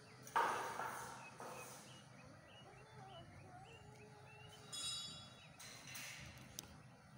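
Outdoor ambience with faint, short bird chirps, a brief high call near the middle, and a few short rustling noises, the loudest just under half a second in.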